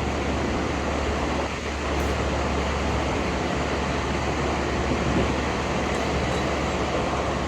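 A steady machine hum with a low drone that does not change.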